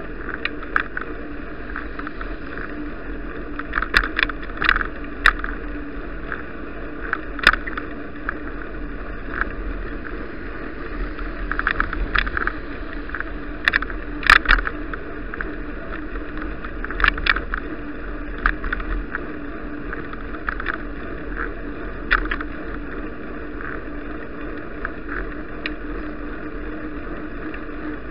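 Bicycle ride heard through an action camera: a steady rumble and hiss of riding, broken by frequent irregular sharp clicks and rattles as the bike goes over bumps.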